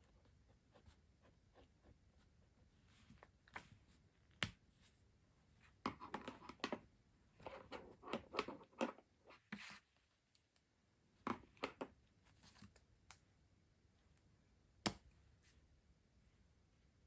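Hands unpacking and handling stationery: a few seconds of soft rustling and crinkling of packaging around the middle, with scattered sharp clicks, a distinct one about four seconds in and another near the end.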